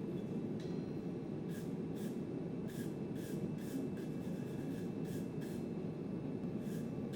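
A forge running with a steady roar while a hammer strikes hot steel on an anvil, about nine light, irregular blows, each with a brief faint ring.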